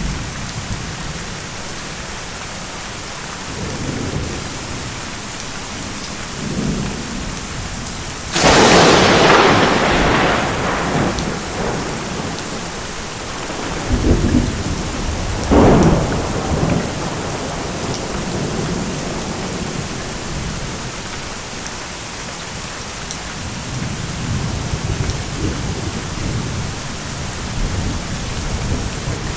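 Steady rain during a thunderstorm. About eight seconds in, a sudden loud thunderclap rumbles away over a few seconds, and a second, shorter crack comes about halfway through. Low thunder rumbles come and go in between and toward the end.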